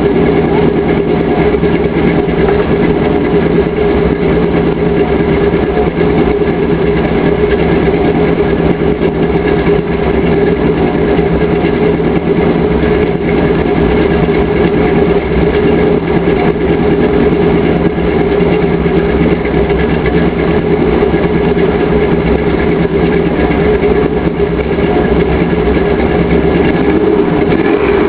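Chevrolet 305 small-block V8 with a mild cam, headers and dual exhaust with turn-downs, idling steadily.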